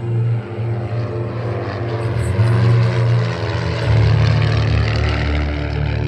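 Propeller-driven aerobatic airplanes flying in formation overhead. Their engines run steadily, with the pitch wavering slightly.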